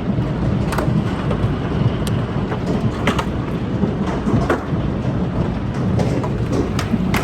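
Hailstorm: a dense, steady roar of hail and rain, broken by many sharp, irregular cracks of hailstones striking hard surfaces.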